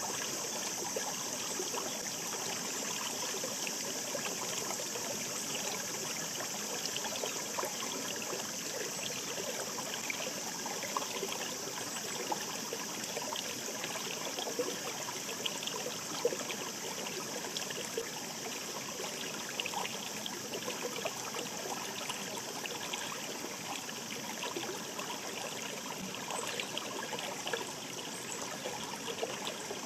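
Shallow stream babbling over stones: steady running water with a constant scatter of small bubbling splashes.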